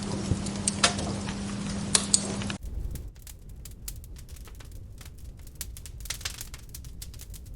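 Wood log fire crackling in a fireplace, with scattered sharp pops over a steady low hum. About two and a half seconds in the sound changes abruptly to quieter, sparser crackling.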